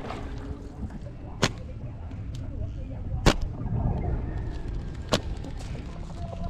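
Sharp knocks at a steady pace, about one every two seconds, four in all, as a paddle strikes the side of a small boat on each stroke, over a low steady rumble of water and wind.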